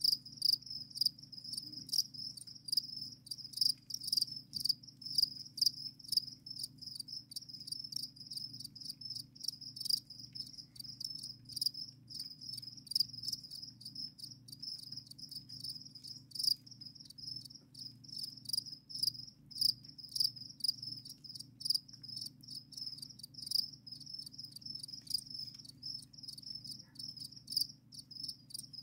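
Captive crickets chirping continuously, many rapid high-pitched pulses overlapping, over a faint steady low hum.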